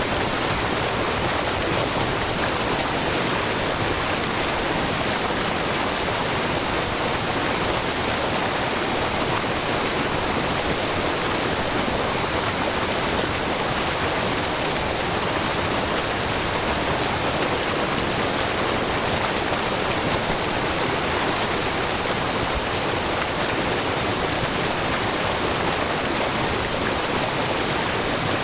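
Low, wide waterfall of spring water pouring over a rock face and splashing into a brook, a steady, even rush of water.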